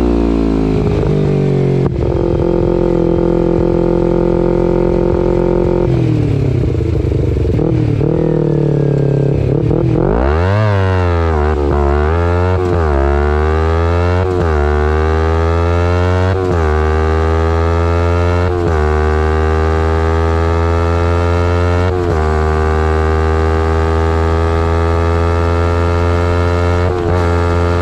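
A 2011 Kawasaki Ninja 250R SE's parallel-twin engine through a full Graves race exhaust, first holding revs and then slowing down for about ten seconds. It then accelerates hard, rising through several gear changes, each a brief drop in pitch, and settles into a steady cruise with slowly climbing revs.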